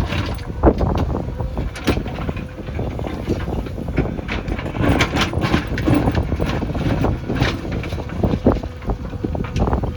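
JCB backhoe loader's diesel engine running under load, with scattered knocks and clanks from the working machine and wind noise on the microphone.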